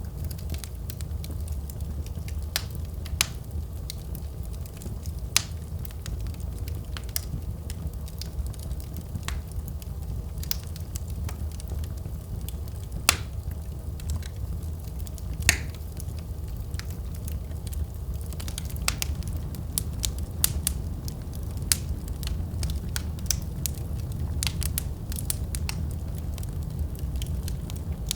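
Wood fire crackling in a fireplace: a steady low rumble under irregular sharp pops and snaps, which come more thickly in the last third.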